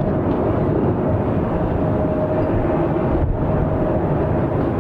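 Jet airliner engines making a steady rumble with a thin, steady whine over it.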